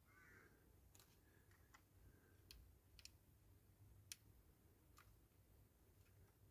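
Near silence with faint, scattered light clicks, about half a dozen, from small model-car parts being handled and tried in place on a diecast body.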